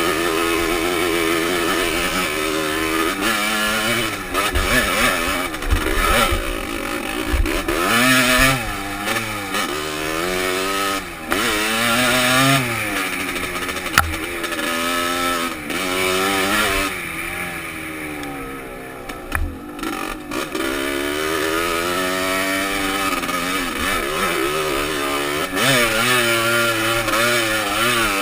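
Dirt bike engine heard from the rider's helmet, its pitch rising and falling over and over as the throttle opens and closes along the trail. It goes quieter and lower for a few seconds past the middle, then picks up again, with wind noise on the helmet microphone throughout.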